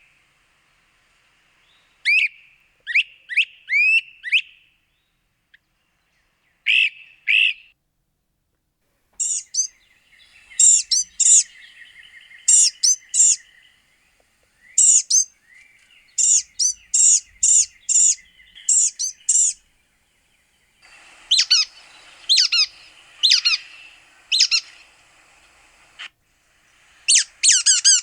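Wild birds calling in a series of short, high, sweeping notes grouped in bursts with brief pauses between them. The pattern changes several times, and near the end there is a fast run of repeated notes, typical of several different species heard one after another.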